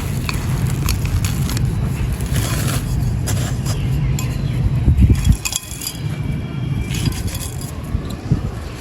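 Mini pots of dried sand and cement being crushed and crumbled by hand: gritty crunching with many sharp little cracks over a steady low rumble. The loudest crunch comes about five seconds in.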